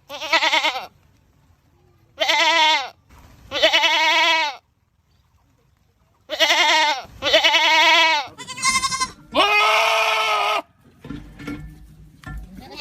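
Goats screaming: a series of about seven loud, wavering calls, each under a second or so long, with short gaps between them. One call is higher-pitched and one is longer and lower. Near the end comes a low rumble between calls.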